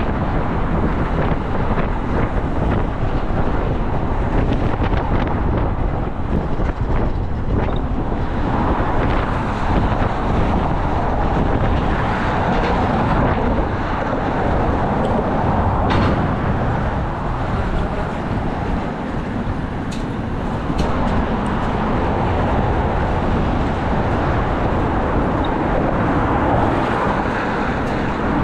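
Steady vehicle and traffic noise, with wind rumbling on the microphone.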